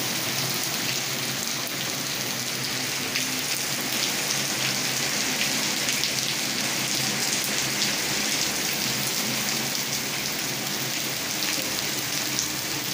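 Heavy rain falling steadily into standing water on a flat paved yard: a dense, even hiss of countless small drop splashes.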